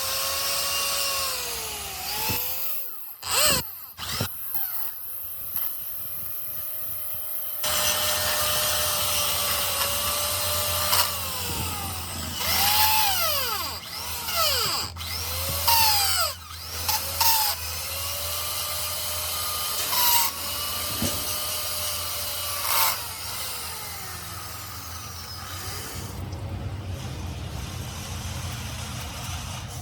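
Handheld electric power tool motor switched on and off again and again: each run rises in pitch, holds steady for a moment to several seconds, then winds down. Near the end the tool stops, leaving a low steady hum.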